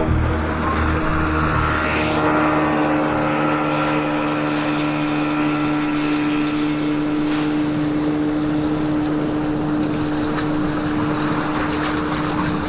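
An engine running steadily, with a constant droning hum.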